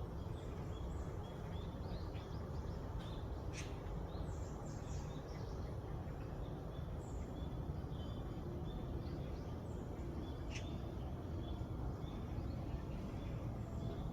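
Small birds chirping and calling on and off, with short high notes scattered throughout and a few sharper calls standing out, over a steady low background rumble.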